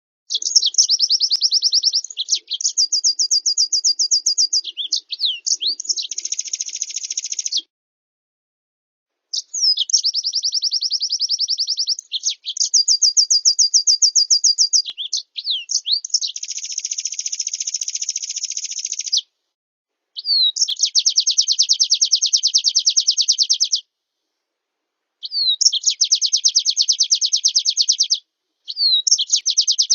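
Recorded songbird song of a pleci (white-eye) masteran track with fill-ins of canary, blackthroat and other small birds: phrases of rapid, high-pitched trills a few seconds long, broken by short clean gaps. It is a tutor recording played so that cage birds learn the song.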